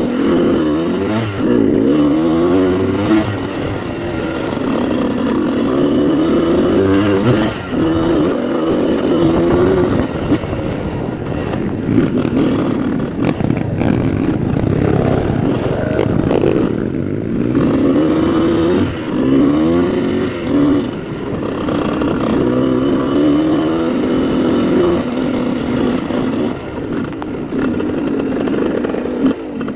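Motocross dirt bike engine revving up and down again and again, its pitch rising and falling every second or two as the throttle is worked.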